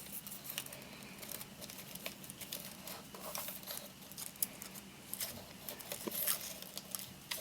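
Faint, scattered crinkling and rustling of palm fronds as they are handled in weaving.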